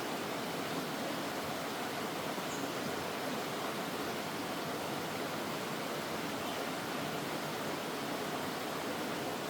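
Mountain valley stream rushing over rocks, a steady, even rush of water.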